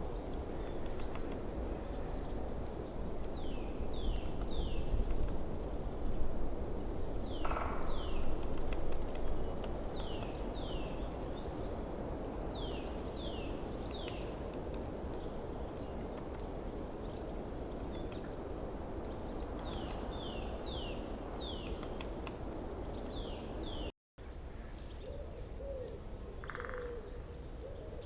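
Forest stream running with a steady rushing sound, while a small bird repeatedly gives short, quick, falling chirps in groups of two or three. The sound cuts out completely for a split second about three-quarters of the way through. Near the end another bird starts a series of low, wavering calls.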